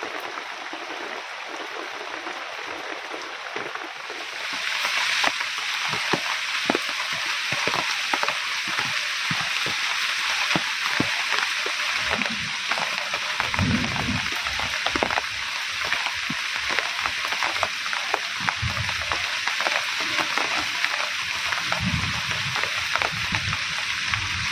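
Heavy rain falling steadily, growing louder about five seconds in, with many individual drops and drips striking close by and a few low rumbles now and then.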